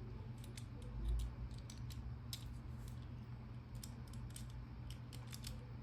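Faint, irregular small clicks of a Master combination lock being worked by hand: the dial turned while the shackle is held under tension to feel for the gates.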